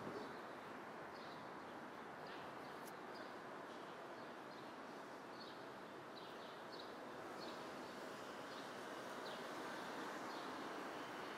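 Outdoor ambience: small birds chirping in short calls, about once or twice a second, over a steady background noise.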